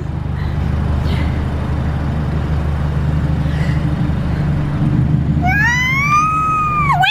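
Ford Fiesta ST's engine running steadily at low speed, heard from inside the cabin. About five and a half seconds in, a long high-pitched squeal rises, holds and then drops away sharply.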